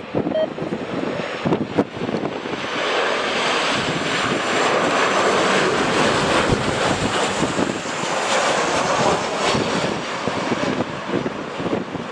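Airliner's engines passing close on landing approach: a loud rushing noise that builds over the first few seconds, holds, and eases slightly near the end, with strong gusts buffeting the microphone.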